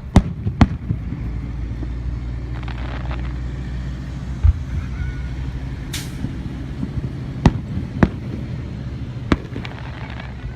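Fireworks going off: sharp bangs, two close together near the start and three more in the second half, with a short hiss in between, over a steady low rumble.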